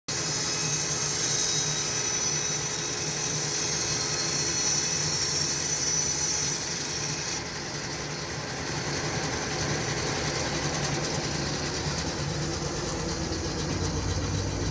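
OX SB-800 band sawmill running, its thin band blade working through wood with a steady machine hum and a high hiss. About seven and a half seconds in the hiss drops away and the sound eases, then a low rumble builds near the end.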